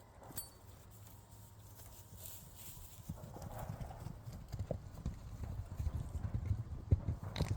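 Hoofbeats of a herd of horses running on the ground, a dense low drumming that grows louder from about three seconds in.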